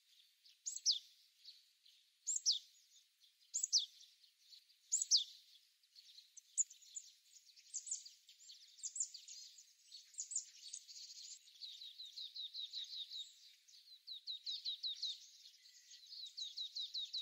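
Small birds calling faintly: four clear falling whistles about a second and a half apart, then a busy run of quick high chirps and short rapid trills.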